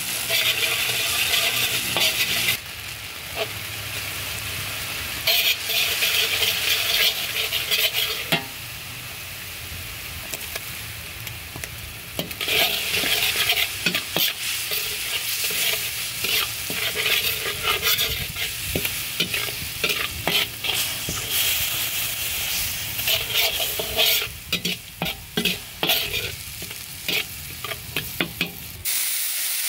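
Chopped garlic, chilies and shallots sizzling in hot oil in a stainless steel wok, with a metal ladle stirring and scraping against the pan. The sizzle grows louder and softer in stretches, with scattered clicks of the ladle on the metal.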